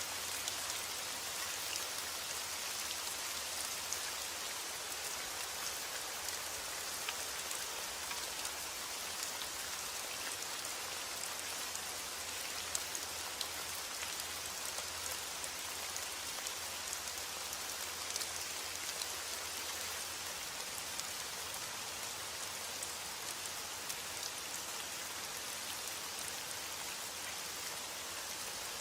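Steady rain with many small drop ticks.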